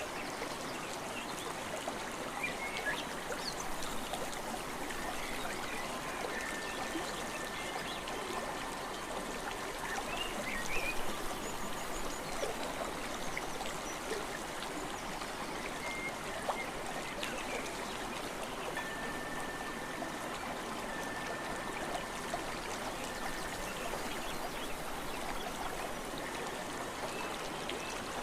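Steady outdoor nature ambience: an even rushing hiss dotted with small crackles. A thin, steady high tone sounds twice, for a few seconds around 7 seconds in and again around 20 seconds in.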